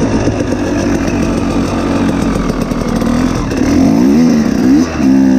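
Two-stroke dirt bike engine running hard. From about three and a half seconds in, its pitch rises and falls several times as the throttle is worked.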